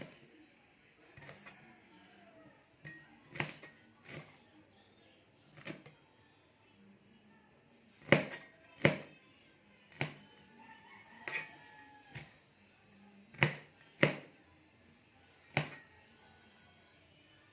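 Irregular sharp taps and clicks, about one a second, the loudest pair about eight to nine seconds in.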